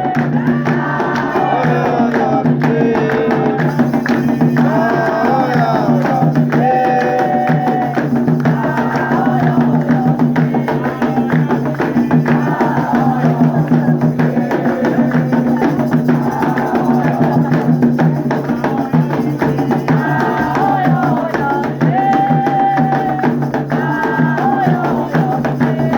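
Sung devotional chant, a Candomblé cantiga for Xangô, with a melodic voice line over steady drumming and percussion.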